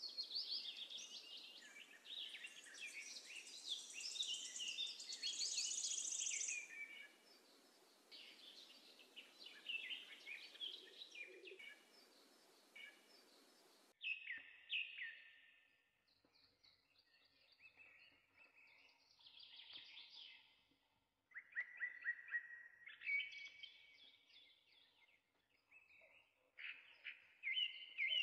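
Small birds chirping and singing, a busy mix of quick high calls. About halfway through, the background hiss drops away suddenly and the calls thin out into separate short chirping phrases.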